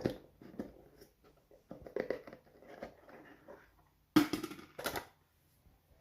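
Cardboard and plastic packaging being handled and pulled open to get a phone charger out of its box: irregular rustling and scraping, with two sharp, loud noises about four and five seconds in.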